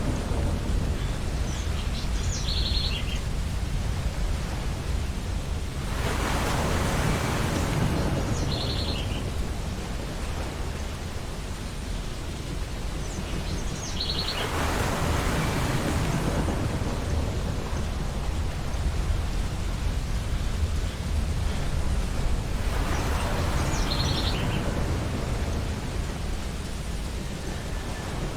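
Ocean waves breaking and washing up a beach, a surge about every eight seconds over a steady low surf rumble, with short high bird chirps now and then.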